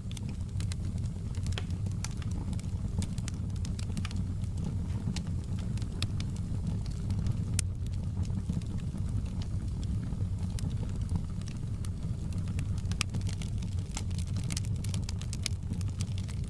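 Wood fire burning in a fireplace: irregular sharp crackles and pops, many per second, over a steady low rumble of the flames.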